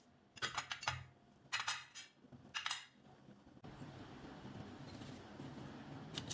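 Small metal parts clicking and clinking as they are handled, in three short clusters, then a faint steady hiss from about halfway with a few more clicks near the end.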